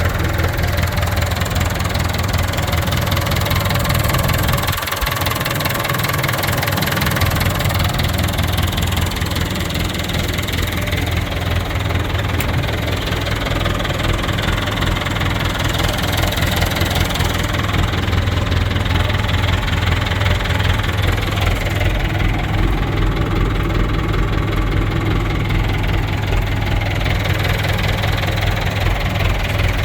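Massey Ferguson 698 Turbo tractor's diesel engine running steadily at a low, even speed, with a strong deep rumble. The low end dips briefly about five seconds in.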